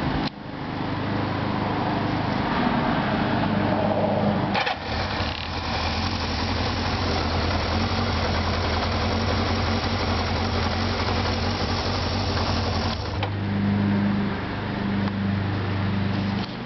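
Kawasaki KZ650 air-cooled inline-four engine running at a fast idle of about 1,500 rpm. It drops out for a moment just after the start. From about a third of the way in until about three-quarters through it sounds harsher and hissier, then settles back to its steadier low hum.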